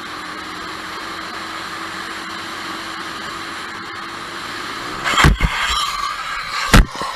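A car driving with steady road and engine noise, then a collision: a loud crash about five seconds in with clattering after it, and a second sharp bang near the end.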